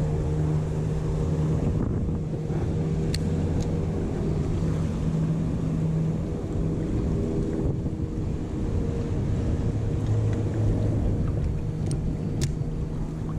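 Steady engine drone, a low pitched hum with overtones, over a haze of water and wind noise, with a couple of sharp clicks about three seconds in and again near the end.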